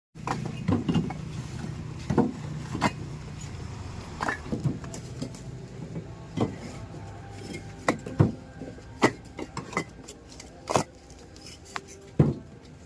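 A motor running steadily at first, with irregular sharp knocks and clanks about once a second.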